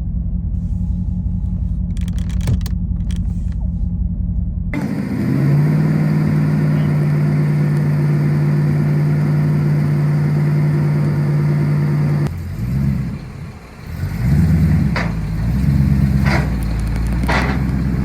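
A classic car engine running with its choke pulled out. It holds a steady fast idle for several seconds, then its revs rise and fall over the last few seconds.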